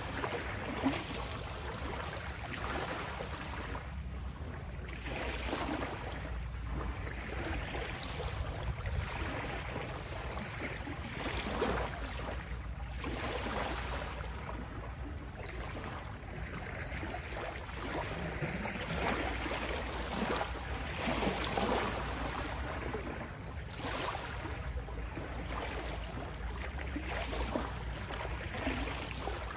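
Small sea waves lapping at the shore: a continuous wash that swells and eases every few seconds, over a steady low rumble.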